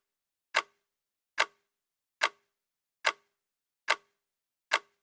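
Steady, clock-like ticking: six sharp ticks, a little more than one a second, with dead silence between them.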